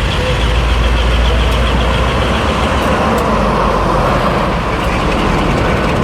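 Heavy diesel locomotive engine running loudly and steadily, with a deep rumble that eases after about two seconds into a broader mechanical noise.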